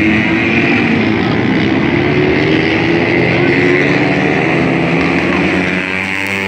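Several dirt bike engines running together on a dirt track, their pitch rising and falling as the riders work the throttles.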